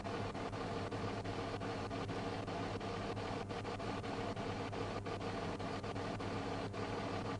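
Steady mechanical hum with several even tones over a constant hiss, like an idling vehicle engine with its ventilation fan running.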